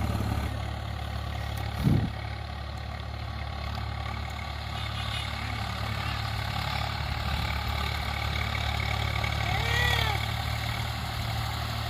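Swaraj 744 FE tractor's three-cylinder diesel engine running steadily. A short thump comes about two seconds in, and a brief call-like voice sound near the end.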